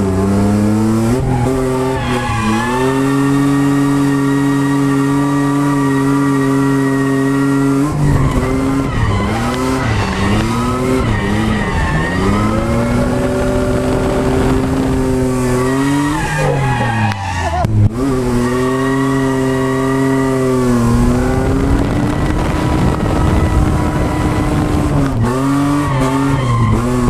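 Ford Falcon FG ex-taxi drift car's engine held at high revs for long stretches, the revs dipping and climbing back several times as it drifts, with tyres squealing.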